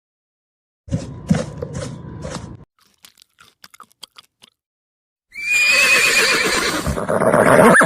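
A horse neighing: one long, loud, wavering call starting about five seconds in. Before it, about a second in, comes a shorter run of several knocks.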